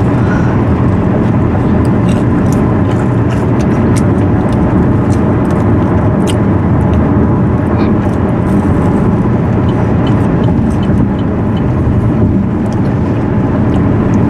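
Steady road and engine noise inside a moving car, with a few small clicks and rustles over it.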